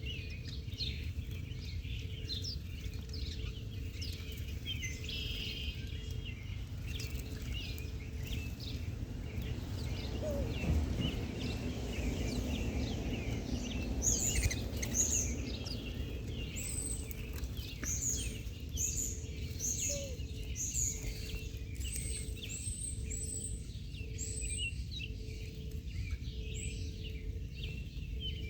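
Many small birds chirping and twittering, with a run of higher, sharper chirps from about halfway in, over a steady low rumble.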